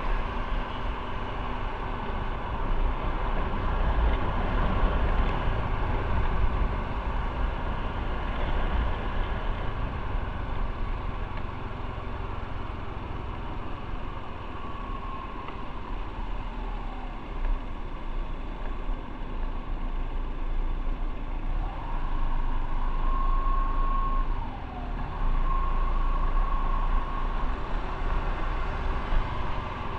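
Motorcycle on the move: engine and road noise under a heavy low wind rumble on the microphone. A whine near 1 kHz rises, holds and falls twice as the engine speeds up and slows.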